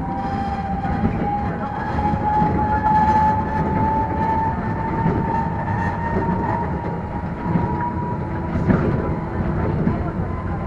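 Enoden electric train running along the track, heard from inside the carriage: a steady rumble and rattle, with a whine that rises slowly in pitch over the first several seconds and then holds.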